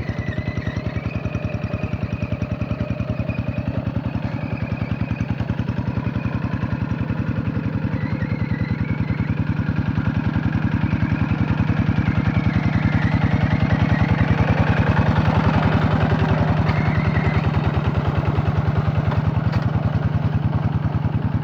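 Hand tractor's single-cylinder diesel engine running steadily, its rapid even firing beat getting a little louder around the middle.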